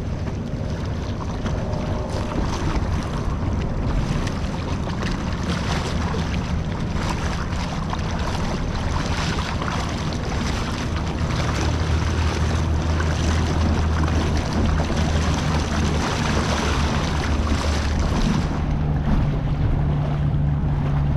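Boat motor running steadily under way, its pitch shifting a little twice, with wind and rushing water noise over it.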